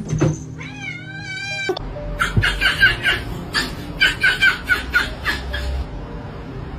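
A cat meowing: one drawn-out, wavering call about a second in, then a run of short, high calls repeated several times a second.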